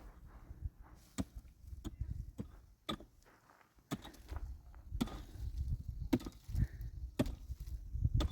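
Repeated chopping strikes from a hand tool, about one a second, each a sharp crack, with low rumbling between them.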